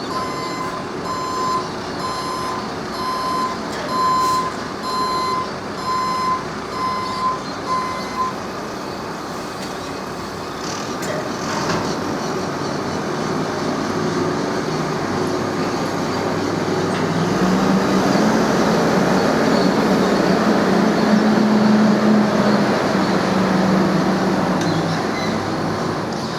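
A heavy vehicle's reversing alarm beeping at an even pace over a running diesel engine, the beeping stopping about eight seconds in. Later the engine grows louder with a steady low hum for several seconds, then eases off near the end.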